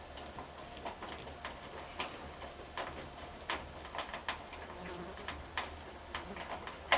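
Irregular light clicks and taps of hand tools and screws against the washing machine's metal cabinet while it is being taken apart, with one sharper, louder click near the end.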